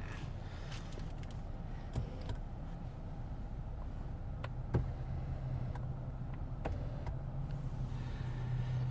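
Low steady rumble inside a car's cabin, with a few sharp clicks; a steady low hum joins about five seconds in.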